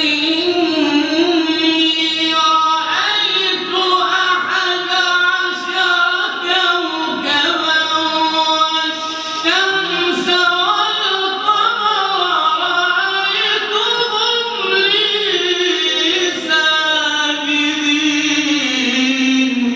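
A Quran reciter's voice in melodic recitation, drawing out long ornamented notes that bend and waver in pitch.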